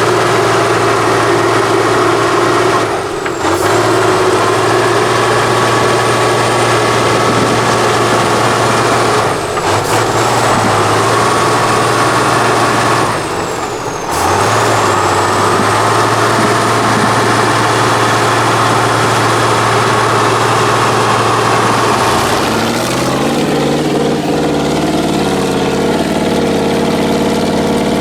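Heavy off-road trial truck's diesel engine working hard under load with a steady high whine. The revs dip briefly three times, about 3, 10 and 14 seconds in, as the throttle is lifted. Near the end the engine settles to lower, steadier revs.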